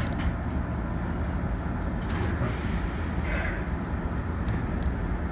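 Steady low hum inside an Izuhakone Railway 3000 series electric train standing at a station, with a brief high hiss about two seconds in.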